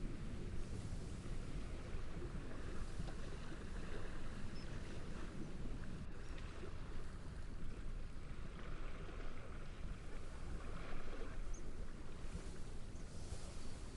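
Steady wind through reeds with gentle sea waves: a continuous, even rush of noise.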